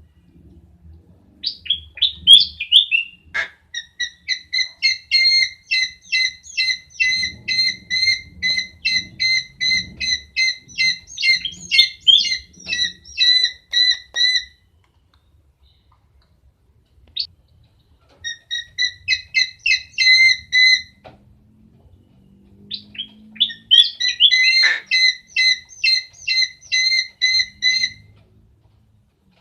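Owl calling in rapid runs of short, evenly repeated chirping calls, about three a second, in three bouts with pauses between them.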